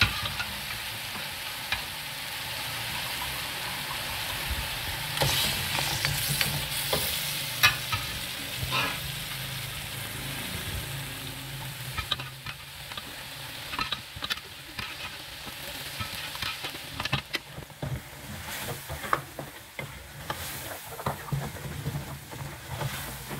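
Beef trotters frying in oil and yogurt-masala paste in a steel pot, sizzling steadily, with a spatula scraping and knocking against the pot as they are stirred. The knocks and scrapes come more often in the second half.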